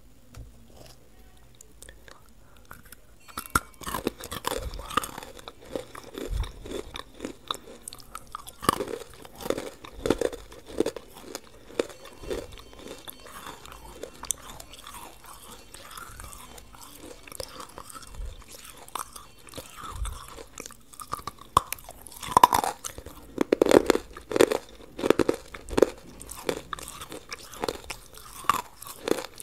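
A person biting and chewing hard, brittle pieces close to the microphone: a long run of sharp, irregular crunches that starts about three seconds in and is at its loudest and densest near the end.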